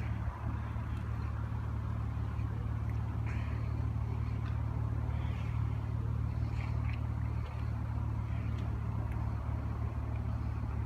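Steady low engine hum of an idling vehicle, even and unchanging throughout.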